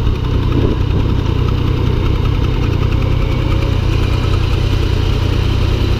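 Yamaha MT-09's 847 cc three-cylinder engine idling steadily, without revving.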